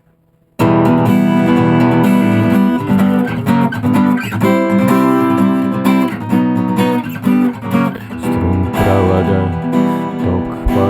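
Acoustic guitar strumming chords, playing a song's intro. It starts abruptly about half a second in.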